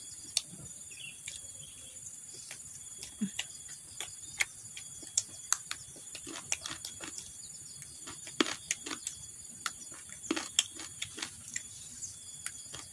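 Close-up mouth sounds of eating raw vegetables and rice: short crisp crunches and wet clicks of chewing, sparse at first and coming thick and fast in the second half. Insects trill steadily and high in the background.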